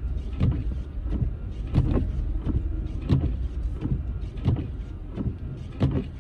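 Car cabin noise while driving on a snowy road: a steady low rumble from engine and tyres. Over it, windshield wipers knock at each stroke, about every second and a half.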